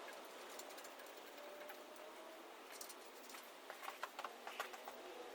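Faint, scattered light clicks and ticks over quiet room tone, with a quick cluster of them about four seconds in.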